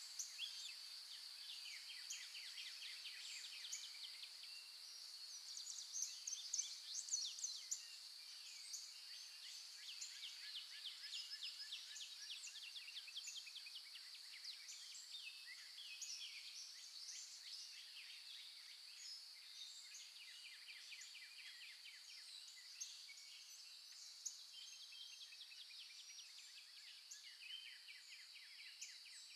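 Faint birdsong: small birds chirping and trilling, busiest in the first half, over a steady high-pitched whine.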